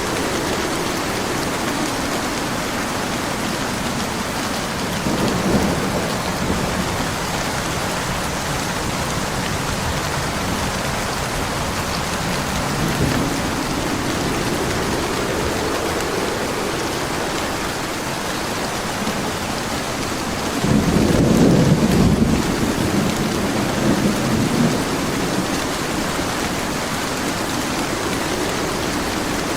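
Steady rain with rolling thunder: a rumble about five seconds in, a fainter one near the middle, and a louder, longer peal about two-thirds of the way through.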